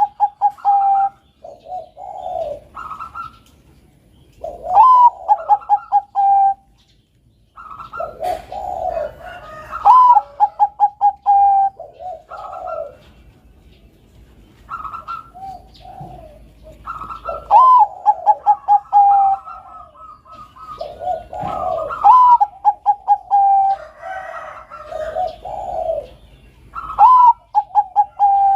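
Zebra doves of the Bangkok-bred type cooing. A phrase comes about every four to five seconds: a rising note, a quick run of short beats, then a held note. Lower coos overlap between the phrases.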